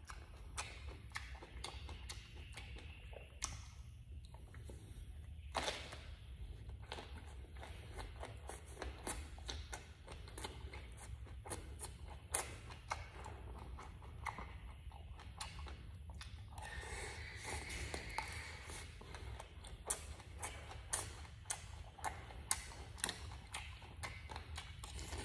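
Close-miked chewing and eating: irregular wet mouth clicks and smacks, over a steady low hum.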